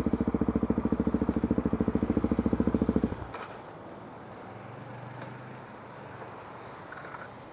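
Motorcycle engine idling with an even, rapid pulse, cutting off abruptly about three seconds in, leaving only a faint low background.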